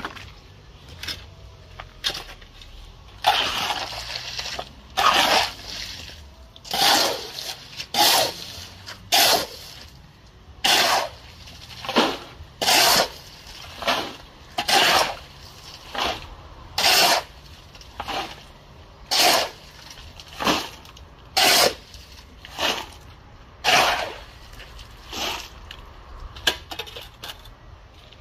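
Rhythmic scraping strokes of a hand tool, about one a second and each about half a second long, repeated steadily some twenty times.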